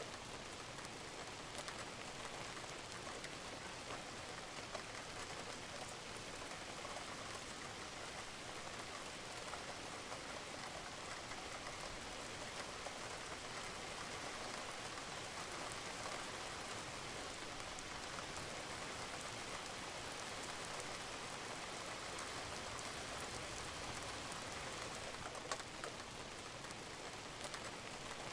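Steady rain falling on a roof, with scattered drips and drop ticks.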